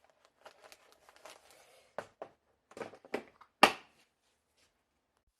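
Handling noises: faint rustling, then a run of sharp clicks and knocks, the loudest about two-thirds of the way through.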